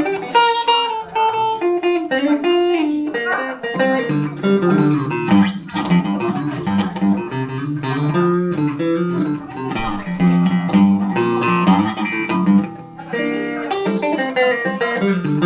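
Solo electric guitar, a Telecaster through a Roland JC-120 amp, playing a run of single-note melody lines, with low bass notes joining about four seconds in.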